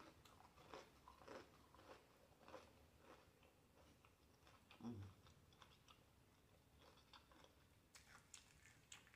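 Faint, close-miked chewing of a fried catfish nugget: soft crunches and small wet mouth clicks, with one brief louder low sound about five seconds in.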